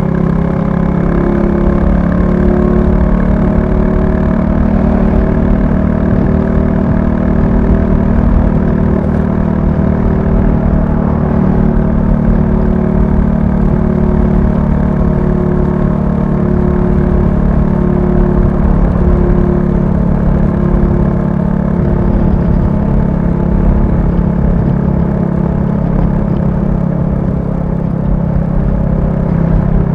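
Royal Enfield Classic 350's single-cylinder engine running steadily with an even, unchanging note.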